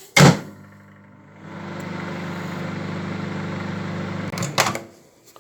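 Microwave oven: a sharp click, then it starts up a second later and runs with a steady low hum for about three seconds, stopping with a few clicks near the end.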